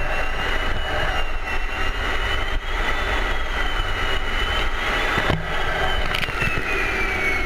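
F-16 jet engine heard inside the cockpit: steady rushing noise with a high whine that wavers in pitch and then falls near the end. There is a short click about two thirds of the way through.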